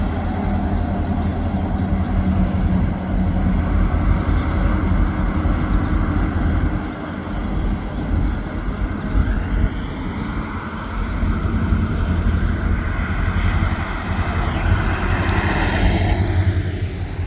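A steady, loud, low engine rumble from a vehicle or heavy machine, with a faint rising tone near the end.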